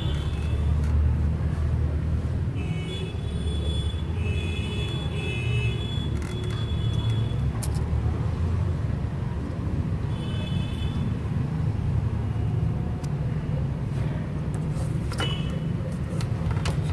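Steady low background rumble, with faint high-pitched tones coming and going several times.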